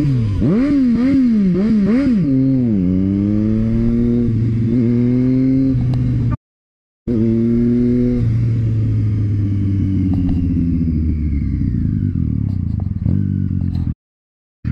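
Motorcycle engine revved in quick up-and-down blips, then accelerating in a series of rising pitch sweeps as it shifts up through the gears. After a short break in the sound it runs on and slows with falling pitch, cutting off near the end.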